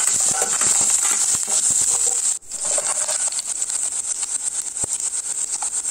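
Cumin seeds, chopped ginger and green chillies sizzling and crackling in hot oil in a steel kadai, with a steel ladle stirring and scraping in the pan early on. The sound cuts out for a moment about halfway through.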